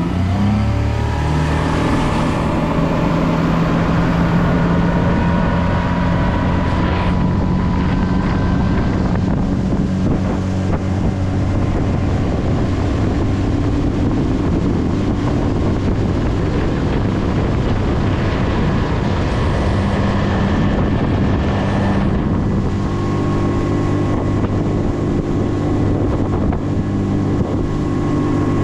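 Duck boat's motor running at high speed across the water, its pitch climbing as it throttles up at the very start and then holding steady, changing to a different steady tone about 23 seconds in. Wind rushes over the microphone throughout.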